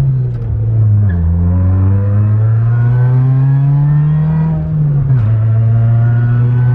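Supercharged Chevy Cobalt SS four-cylinder engine accelerating hard through the gears. Its pitch drops at an upshift about a second in, climbs steadily under load, then drops again at a second shift about five seconds in.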